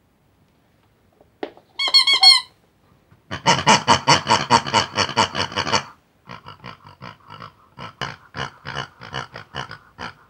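Squeaky pig-like oinking chatter: a quick run of high chirpy squeaks about two seconds in, then rapid strings of grunts that run on to the end.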